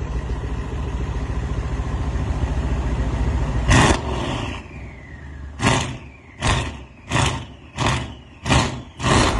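Mercedes-Benz CLS exhaust with the engine running steadily, then revved hard once about four seconds in and blipped in a series of short, sharp revs, about one every 0.7 seconds.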